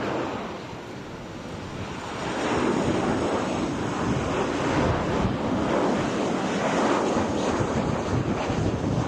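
Strong gusty wind buffeting the microphone over the rushing noise of a jet airliner landing, which grows louder about two seconds in and stays up.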